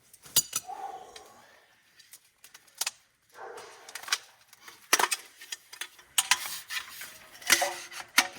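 Camp gear being handled and set out: an irregular run of clinks, knocks and rustles.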